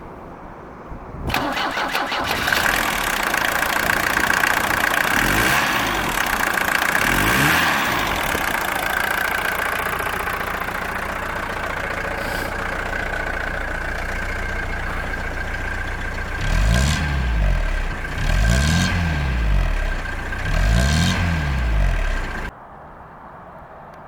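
Four-cylinder Mercedes-Benz 240D diesel engine starting about a second in and idling, with a steady whine over the idle. It is blipped twice lightly and later revved three times more strongly before the sound cuts off near the end.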